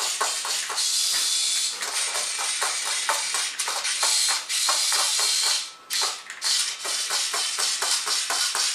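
Battery-powered toy spider running, its mechanism clicking rapidly and unevenly with stretches of hiss that stop and start.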